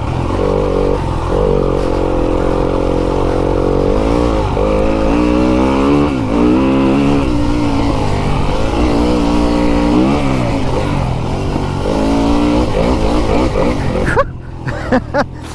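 Fantic enduro dirt bike engine running hard around a motocross track, its pitch climbing and falling again and again as the rider opens the throttle and shifts or backs off. Near the end the throttle is shut and the engine drops away briefly, with a few sharp clicks.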